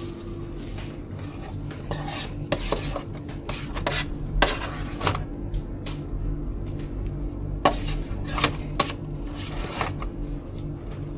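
Metal utensils scraping and clinking against dishes and containers while food is prepared, with a few sharp clinks about four and a half and seven and a half seconds in, over a steady low hum.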